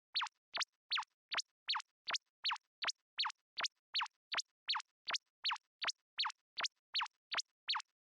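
Electronic chirp sound effect repeating at an even pace, about three quick falling whistles a second.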